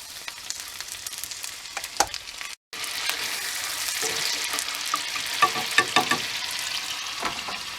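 Garlic-butter and soy sauce mixture sizzling in a pan, with clicks and scrapes of a utensil stirring it. The sound drops out briefly about two and a half seconds in, then the sizzle comes back louder.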